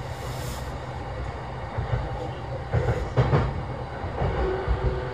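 Running sound inside a motor car of a JR East E233-7000 series electric train: a steady low rumble of wheels on the track, with a few louder knocks from the rails around three seconds in. A faint steady hum from the traction equipment joins about four seconds in.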